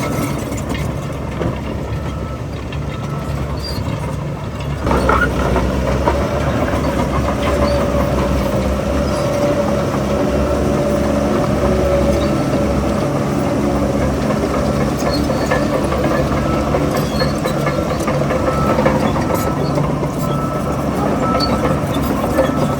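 Heavy crawler bulldozer's diesel engine running with track clatter, picking up load and getting louder about five seconds in.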